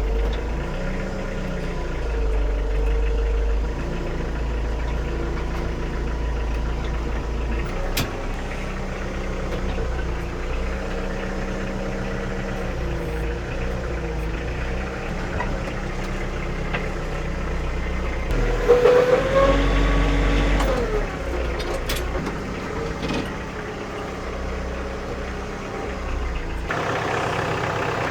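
An engine idling steadily. About two-thirds through it grows louder for a couple of seconds, with a wavering whine.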